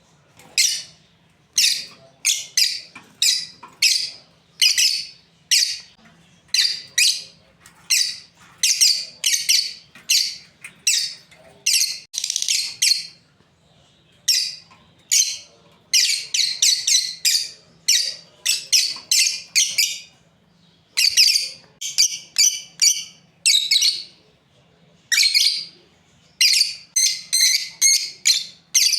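Lovebirds chirping: a steady stream of short, sharp, high-pitched chirps in quick runs, broken by a few brief pauses.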